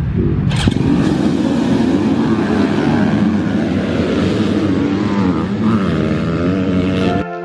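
Motorcycle engine revving, its pitch wavering up and down. It cuts off abruptly near the end and music begins.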